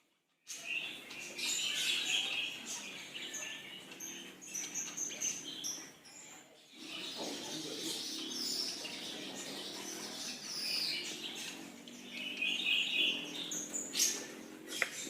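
Small birds chirping and twittering in many short, high calls, with a brief break about six and a half seconds in.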